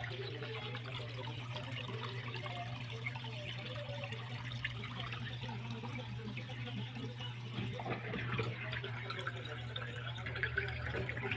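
Water running and splashing with many small drips, over a steady low hum.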